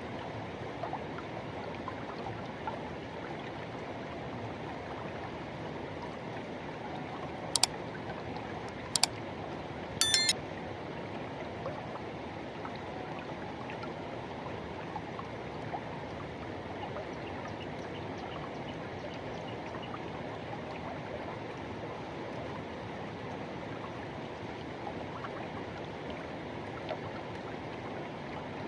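Forest river rushing steadily over its bed. Three sharp clicks come in quick succession about a third of the way in, louder than the water.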